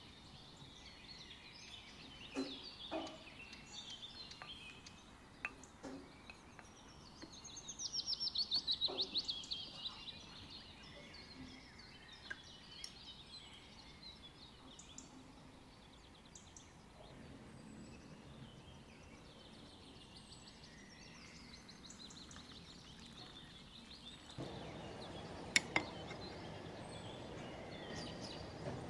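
Birds chirping and singing in the background, with a fast trill of rapid notes about eight seconds in. A few faint clicks, and a steady hiss that gets louder about three-quarters of the way through.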